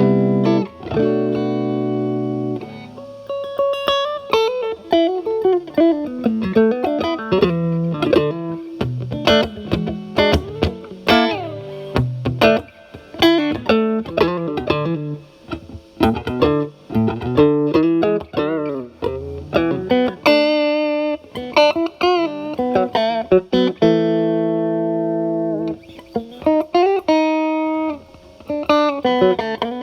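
Fender Stratocaster with single-coil pickups played through a Paul Cochrane Timmy transparent overdrive set to about gain 9, into a Marshall Valvestate amp on its clean channel. It plays lead lines of picked single notes with string bends, with held chords at the start and again about 24 seconds in.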